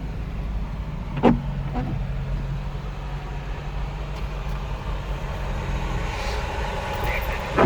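Small car running, heard from inside the cabin: a steady low engine and road rumble with a low hum. A sharp knock comes about a second in and another near the end.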